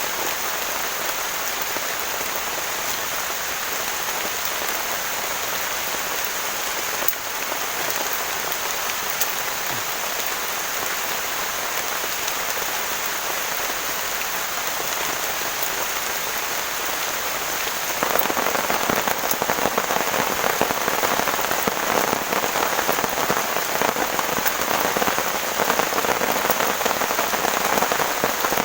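Heavy rain falling steadily, a dense hiss of drops that suddenly grows louder and heavier about two-thirds of the way through.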